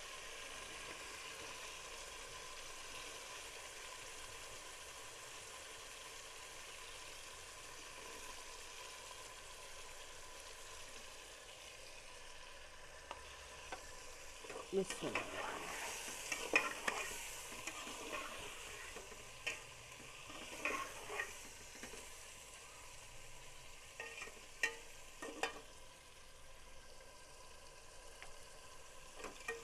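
Chicken frying in hot oil in a cooking pot with onion and garlic just added, sizzling steadily. From about halfway on, the spoon stirring and scraping against the pot makes sharp knocks and scrapes.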